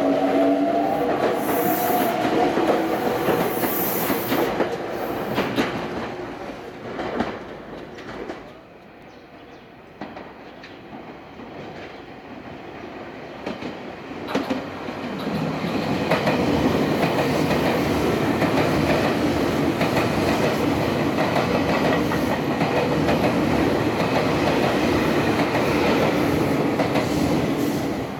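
Red Meitetsu electric commuter trains running through a station on clattering wheels. One train runs past and dies away about eight seconds in. A second comes in at about fifteen seconds and runs past steadily until the sound drops near the end.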